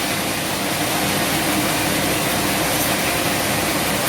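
Steady drone of sawmill machinery running, with a faint low hum beneath an even noise.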